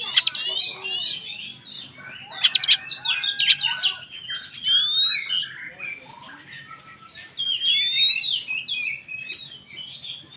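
Oriental magpie-robin (kacer) singing a fast, varied song of chirps and rising whistled notes, broken by a few harsh rasping notes.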